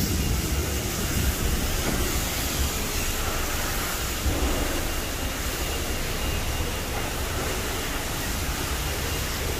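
Steady low rumble of running car engines with a hiss of traffic noise over it.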